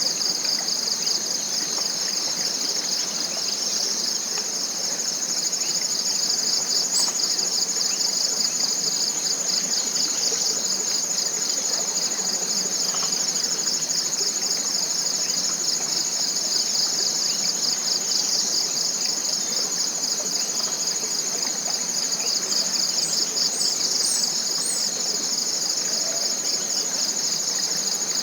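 Tropical forest insect chorus: a steady, finely pulsing high buzz that never lets up. A few faint short high chirps, likely from birds, come through near the end.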